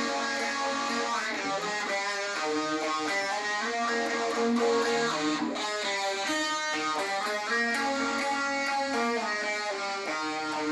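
Electric guitar played through an MXR Phase 90 phaser pedal, a riff of changing notes.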